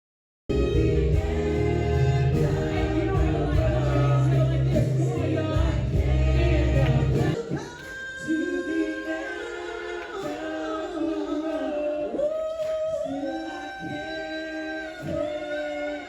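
Music with choir-like singing, cut off for a split second at the start. Full, bass-heavy backing plays until about seven seconds in, then falls away, leaving quieter held vocal notes.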